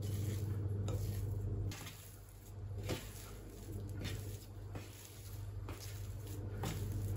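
Soft handling noises with a few light clicks and taps, over a steady low hum.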